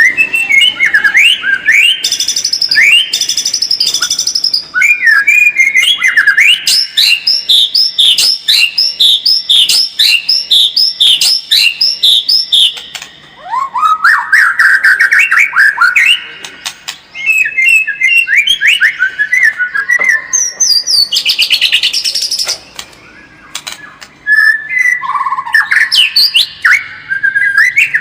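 White-rumped shama (murai batu) singing a long, varied song of clear whistled phrases: slurred rising notes, quick runs of repeated notes, and a couple of brief pauses between phrases.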